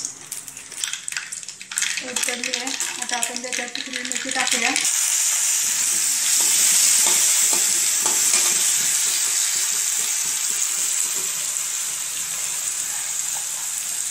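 Hot oil in a steel kadhai giving a few light crackles. About five seconds in, a sudden loud sizzle starts as wet green chilli, coriander and garlic paste goes into the oil. It keeps sizzling steadily and slowly eases off while a slotted steel spatula stirs it.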